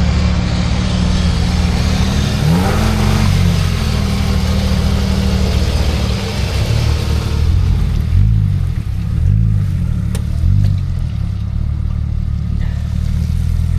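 A 4x4's engine running near idle. It revs up and back down once about two and a half seconds in, then three short revs come in quick succession between about eight and ten and a half seconds. A steady hiss lies over the first half and fades out about seven seconds in.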